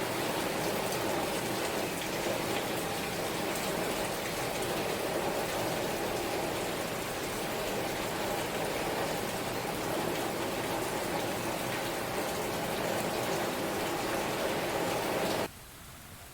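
Steady rain, a dense even hiss of drops. Near the end it cuts off suddenly to a much quieter hiss.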